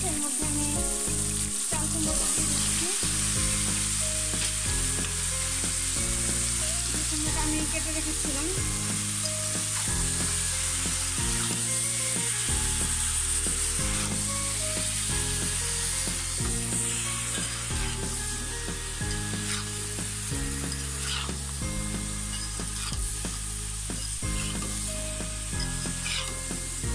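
Shrimp with onion, spices and green chilies frying in oil in a pan, with chopped ash gourd added and stirred in: a steady high sizzle with a few light spatula knocks. Soft background music plays underneath.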